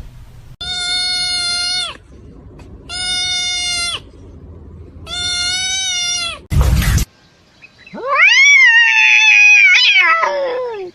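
A cat meowing: three long, level calls about a second apart, a brief loud bump of noise, then a longer meow that rises and slides down at the end.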